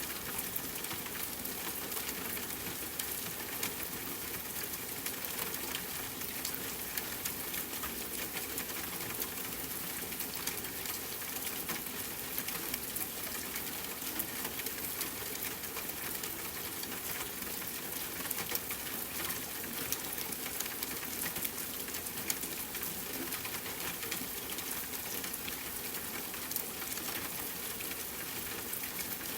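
Steady rain falling, with many small crackles and pops from a campfire.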